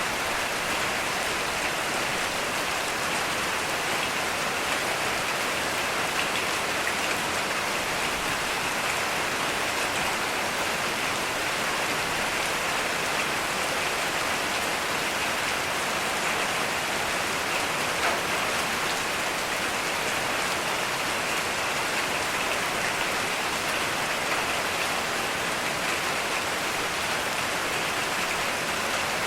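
Heavy rain falling steadily, an even unbroken wash of raindrops.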